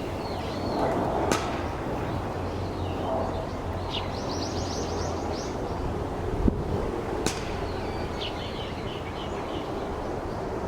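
Eurasian tree sparrows chirping, with a quick run of chirps about four seconds in and more around eight seconds. There are two sharp clicks, about a second in and about seven seconds in, over a steady low background rumble.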